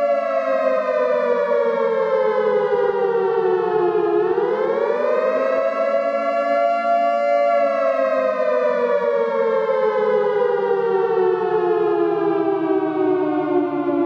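Civil defense (nuclear alarm) siren wailing. Its pitch slides down for about four seconds, swings quickly back up, holds briefly, then slowly falls again.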